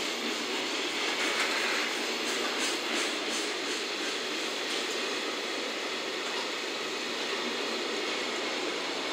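Loaded container wagons of a freight train rolling past close by: steady wheel-on-rail rolling noise.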